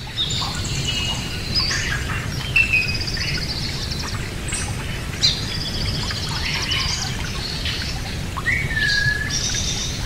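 Several birds chirping, trilling and whistling in quick, varied calls, with a clear whistle about eight and a half seconds in, over a steady low rumble.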